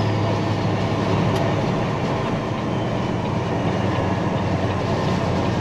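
Peterbilt 379 semi truck driving: a steady, loud rumble of engine and road noise.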